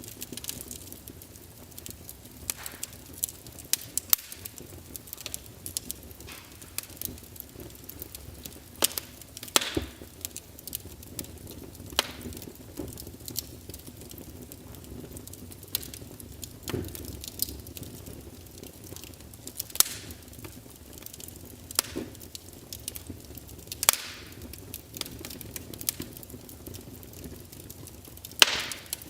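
Wood fire crackling in a fireplace: irregular sharp pops and snaps, a few of them loud, over a soft steady hiss of burning.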